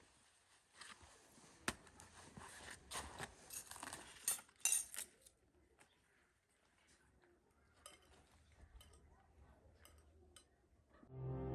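A run of light clinks, knocks and scrapes from small hard objects being handled, densest in the first few seconds and then sparser. Background music begins near the end.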